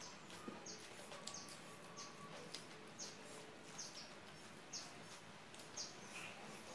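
A small bird chirping faintly: a short, high chirp repeated at slightly uneven spacing, roughly once a second.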